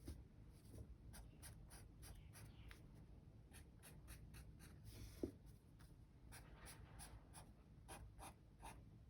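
Pen drawing short, quick strokes on paper, faint and irregular, a few strokes a second, as lines are drawn across feathers.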